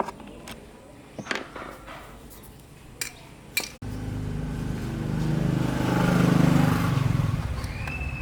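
Sparse small metal clinks and taps for the first few seconds. Then, after a sudden cut, a steady motor hum begins; it swells to its loudest about two-thirds of the way through and then eases back.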